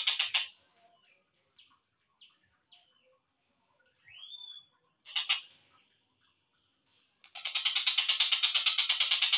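Tengkek buto kingfisher calling. A fast rattling trill ends about half a second in, followed by a few short chirps, a rising slurred note and a sharp call. Near the end a long rapid rattle of about seven to eight notes a second starts.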